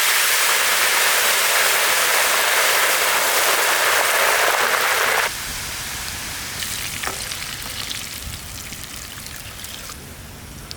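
Coriander leaves frying in hot oil: loud, even sizzling that drops sharply about five seconds in, then goes on quieter and fades.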